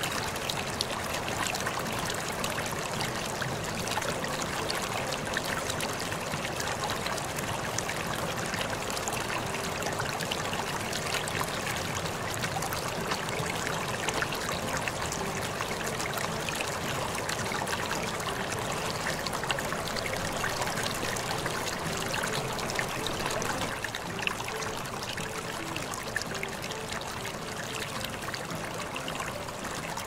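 Steady running water of a stream, an even wash of sound.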